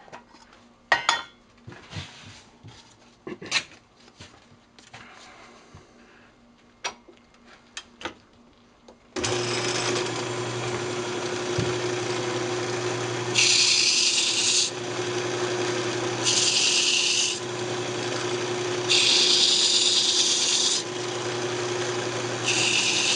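A few light clicks and knocks, then about nine seconds in the wood lathe starts and runs with a steady hum. Sandpaper is pressed against the spinning maple box four times, each pass a loud hiss of about a second or two.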